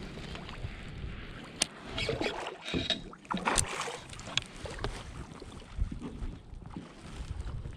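Irregular clicks, knocks and short splashy bursts of handling noise in a kayak while a hooked bass is fought and landed, with a few sharper clicks standing out.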